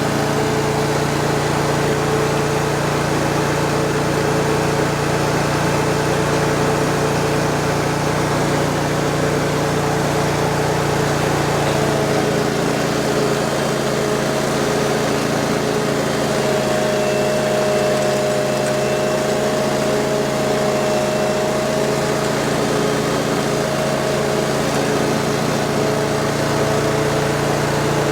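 Ditch Witch FX20 vacuum excavator running steadily, a constant engine drone with a whine on top. About twelve seconds in the sound shifts slightly and a clear higher whine comes in and holds.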